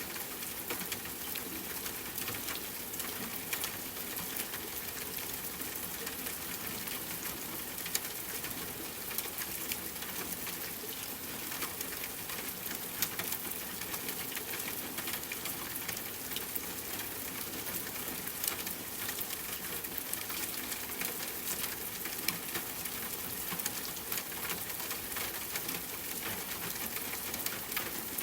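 Steady rain falling, mixed with a campfire crackling: a constant hiss with sharp pops and ticks scattered throughout.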